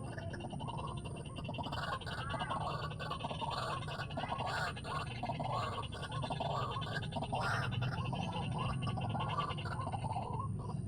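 White-breasted waterhen calls: a continuous, rapid gurgling chatter.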